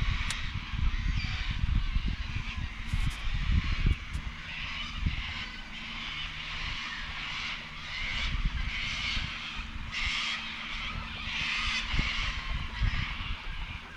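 Wind buffeting the microphone in irregular gusts, with a rushing hiss and a faint steady low hum underneath.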